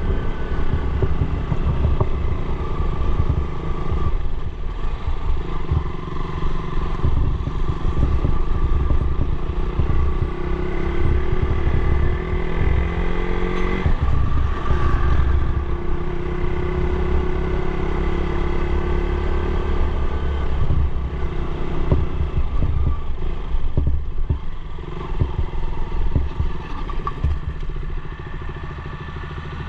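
Motorcycle engine running under way, its pitch rising and falling with the throttle, over a heavy low rumble.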